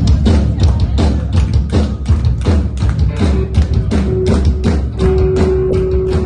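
Band music with a drum kit beating a steady rhythm of about three strokes a second over a heavy bass line; a held note comes in about three seconds in.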